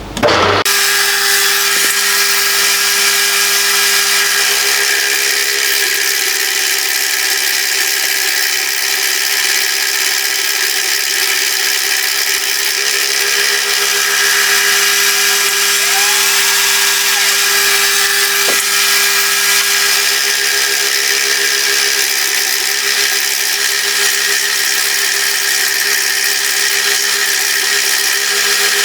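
Milling machine taking a cut to face down the motor-mount block, starting up just after the start and running steadily, a constant hum under the hiss of the cut.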